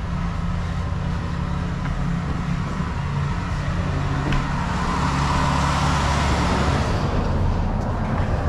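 Heavy truck diesel engine running steadily with a low hum, joined by a rushing noise that builds a few seconds in and eases near the end.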